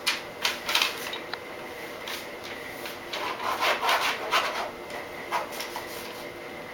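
A child scribbling on paper with a drawing tool, in a series of irregular rubbing, scraping strokes.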